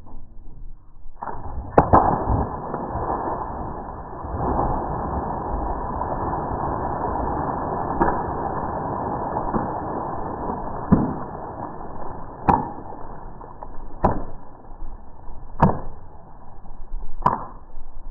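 Steady rushing noise of wind and water from a moving boat, starting about a second in, with sharp knocks at uneven gaps of one to three seconds.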